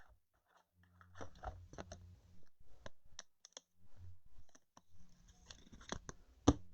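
Trading cards being handled and flipped through by hand: scattered light clicks and rustles, with one sharp, louder click near the end.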